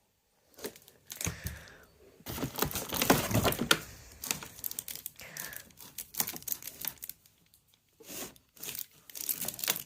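Crinkling and rustling of plastic being handled, in irregular crackles, densest and loudest about two to four seconds in, then in scattered short bursts.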